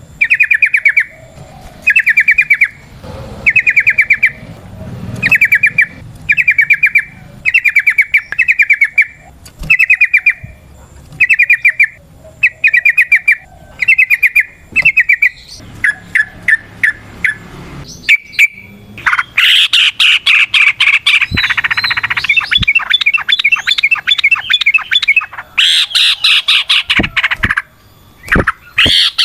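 Yellow-vented bulbul (trucukan) singing: short, rapid trilled phrases repeated about once a second, then, about two-thirds of the way in, a longer and louder unbroken run of chattering trills.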